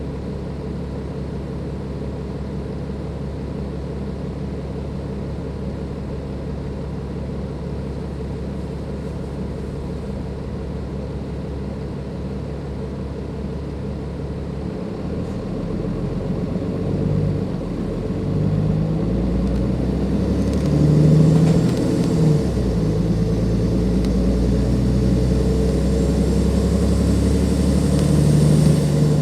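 Cummins ISLe diesel engine of a Dennis Enviro 500 double-decker bus idling steadily for about fifteen seconds, then working harder and growing louder as the bus pulls away, with its pitch shifting up and down. It is loudest about two-thirds of the way through and near the end.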